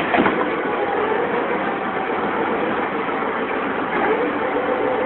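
Diesel engine of a tracked armoured vehicle (MT-LB or BMP) running steadily under throttle, with the pitch rising slightly about four seconds in.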